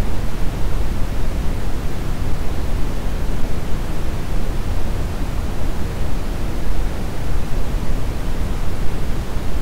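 Steady brown noise: an even, deep rushing hiss, strongest in the lows.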